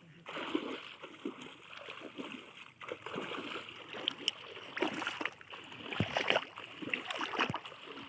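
River water splashing and sloshing in irregular surges, as people wade and work a fishing net through it.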